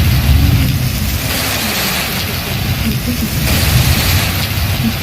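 Thunderstorm wind and heavy rain, the gusts buffeting the microphone with a low rumble under a steady hiss that surges and eases every second or two.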